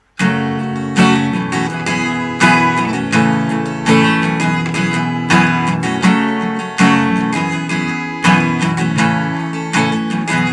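Acoustic guitar strummed in a down, down, down, up, down, up, down, up pattern, playing the song's intro chords E minor, D, G, D with a capo on the second fret.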